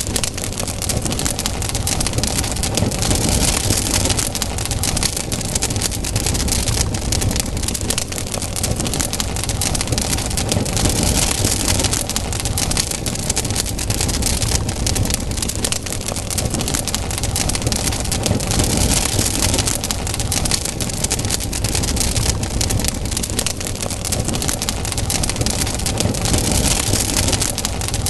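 Wood campfire burning, a dense, steady crackle of many small sharp pops over a constant low rumble.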